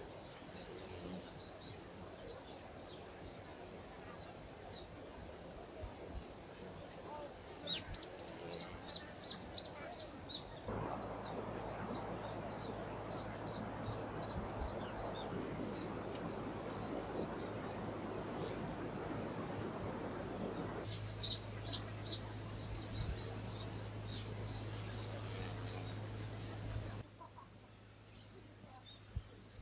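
Outdoor ambience of birds chirping in quick runs of short calls over a steady high-pitched drone. The background changes abruptly several times, with a rushing noise through the middle part.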